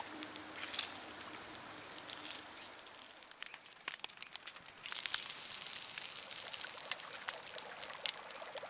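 Running water trickling and splashing, as in a small stream. It gets louder and busier about five seconds in.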